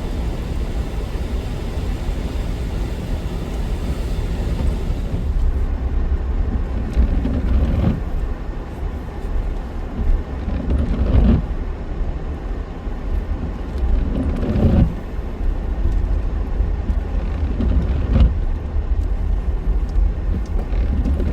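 Car cabin noise while driving on a snowy road: a steady low rumble from the tyres and engine. A few dull knocks come about every three or four seconds.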